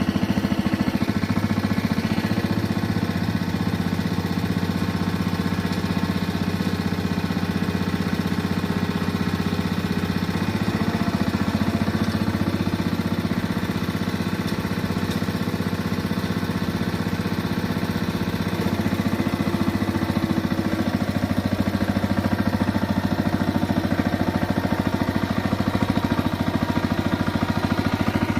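Power tiller's single-cylinder diesel engine running steadily with a rapid, even chugging, easing off slightly in the middle and picking up again about two-thirds of the way through.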